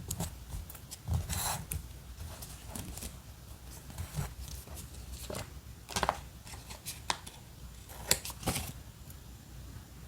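Paper and stationery being handled for diary decorating: scattered short rustles and sharp taps, the sharpest about six and eight seconds in.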